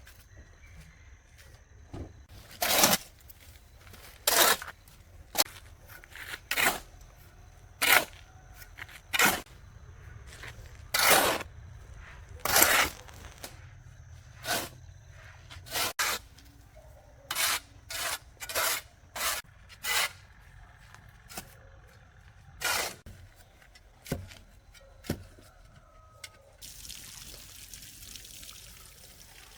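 Repeated short scraping or swishing strokes, irregular, roughly one a second. A steady trickling hiss like running water sets in near the end.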